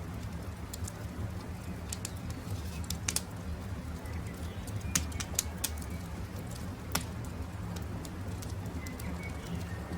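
Campfire crackling: scattered sharp pops and snaps over a steady low rumble from the burning wood, the loudest pops about five and seven seconds in. Faint short bird calls sound in the background.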